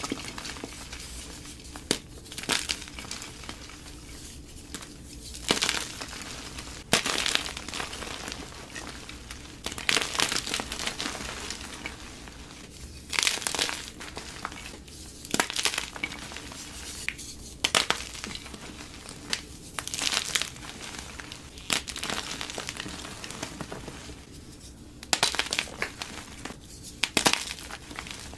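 Gym chalk being crushed and crumbled close to the microphone: crisp, crackling crunches that come in irregular clusters every few seconds, with quieter gritty rustling between them.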